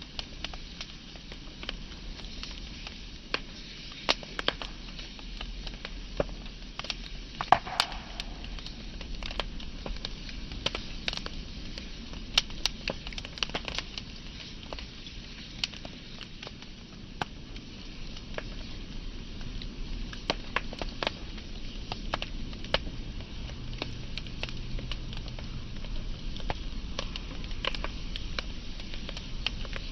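Wood fire burning with a steady soft hiss and irregular sharp crackles and pops of the burning logs, one louder pop about seven and a half seconds in.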